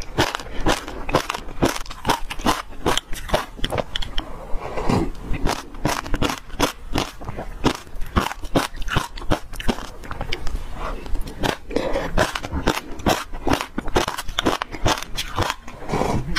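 Passion fruit seeds being crunched and chewed, a dense run of crisp crackles several times a second.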